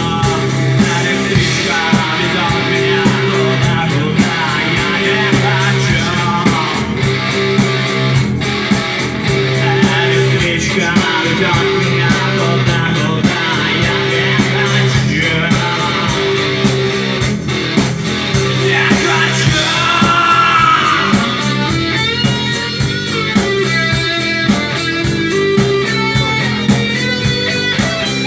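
Rock music with electric guitar, bass and a steady drum beat, played without recognisable words.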